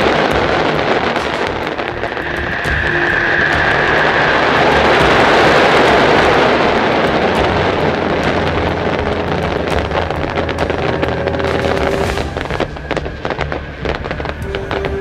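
Mass launch of tens of thousands of Black Cat firework rockets at once: a dense, continuous roar of launches and bursts, loudest about five seconds in. It thins in the last few seconds to scattered cracks and bangs.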